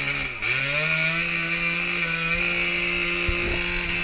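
Dirt bike engine held at high revs, a steady chainsaw-like drone after a brief dip about half a second in. It is the sound of a rider struggling through a hard, muddy section.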